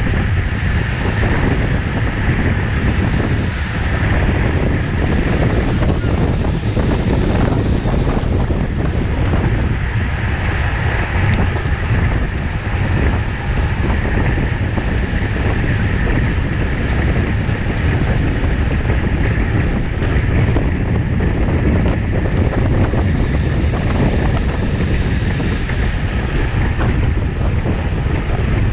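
Steady wind rushing over the microphone of a camera carried on a racing bicycle at speed.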